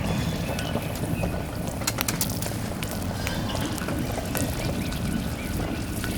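Meat sizzling on a hot plate set on a kerosene heater, a steady hiss with scattered pops and crackles.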